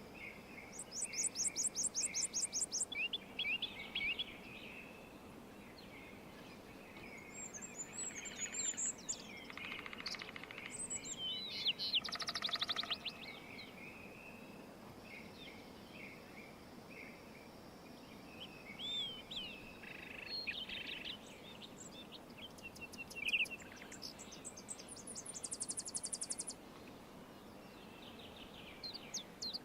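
Several songbirds singing and calling: short high chirps and whistled notes, with a rapid high trill now and then, over a steady low hiss of outdoor background noise.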